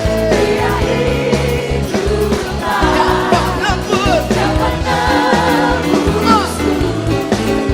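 Live praise-and-worship music: a band playing with a steady bass while singers carry the melody.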